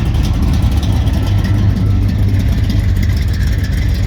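A car engine idling steadily with a deep low rumble.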